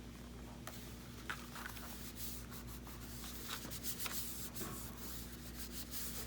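Paper being rubbed and handled by hand: a run of short, scratchy rustles that grows busier about two seconds in.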